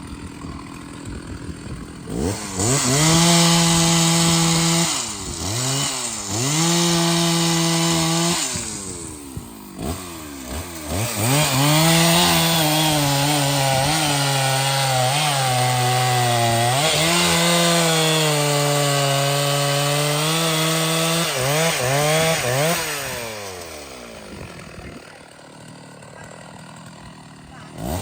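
Large two-stroke chainsaw idling, then revving up in two short bursts, then running at full throttle for about ten seconds while cutting trembesi wood, its pitch sagging under load in the middle of the cut. It falls back to idle a few seconds before the end.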